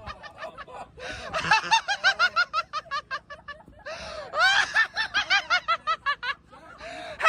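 People laughing hard in rapid ha-ha-ha pulses, with a louder stretch of laughter about four seconds in.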